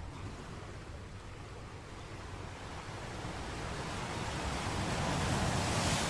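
Sea surf: a wave's rush of noise builds over a few seconds and peaks near the end as it breaks.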